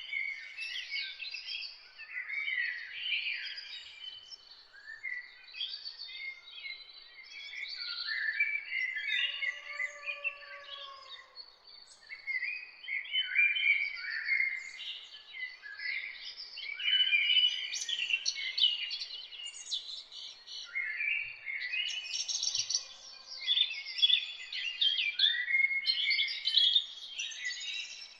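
A chorus of several songbirds singing and chirping at once: quick, overlapping high trills and chirps with no pause, and a softer, lower arched call about ten seconds in.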